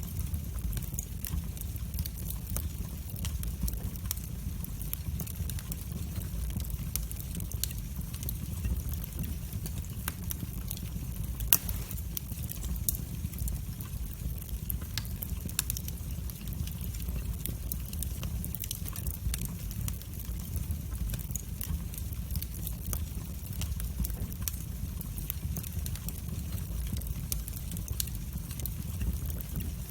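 Wood fire burning in a fireplace: a steady low rumble and hiss with frequent small crackles and pops, one sharper pop about eleven seconds in.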